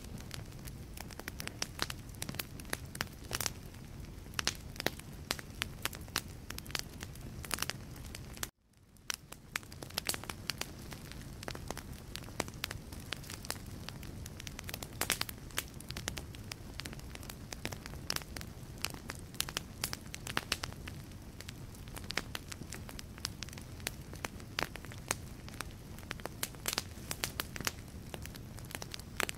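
Wood fire burning in a fireplace, crackling with frequent sharp pops over a low, steady rumble of the flames. The sound cuts out abruptly about eight seconds in and fades back in over a second or so.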